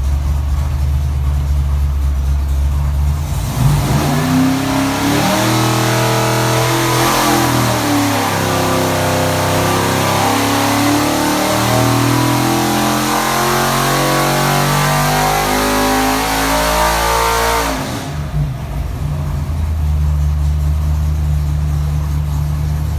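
Carbureted 427 Ford Windsor V8 with a hydraulic roller cam on an engine dyno: it idles, then about three and a half seconds in goes to wide-open throttle for a long power pull climbing to about 6,500 RPM, and shuts back down to idle about fifteen seconds later.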